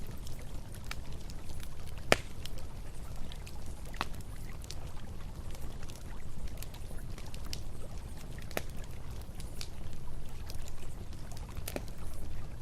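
Wood campfire crackling, with scattered sharp pops and one loud pop about two seconds in, over the steady low rush of flowing river water.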